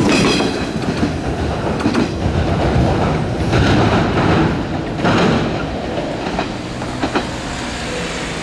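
JR 415 series electric train passing close and pulling away, its wheels clacking over the rail joints with a few sharp clicks. The running noise eases off gradually as the train recedes.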